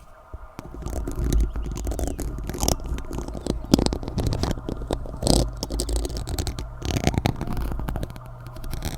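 Spoons clicking and scraping close to the microphone, a dense run of irregular taps and scrapes over a low rumble.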